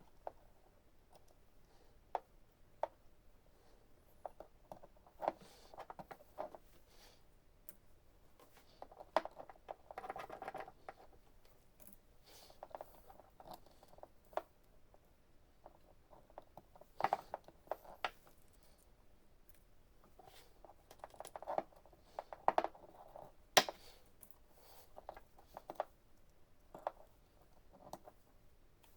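Scattered clicks, taps and brief rustles of hands handling an ignition coil and its plastic connector while fitting it to a spark tester.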